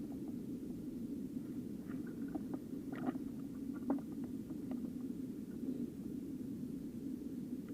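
Small mountain stream flowing, a steady low rush of water, with a scatter of light clicks and taps between about two and five seconds in.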